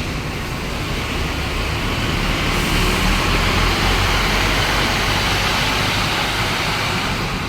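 Scania K230UB single-deck bus on the move: a low diesel engine rumble under a hiss of road noise, swelling a couple of seconds in and then easing off.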